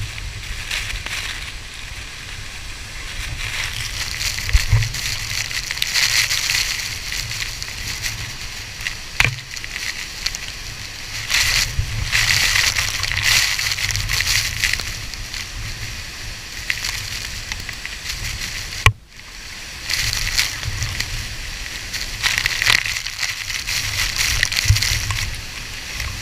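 Water sloshing and splashing around a raft, swelling and fading in waves over a low rumble, with a sudden brief break about two-thirds of the way through.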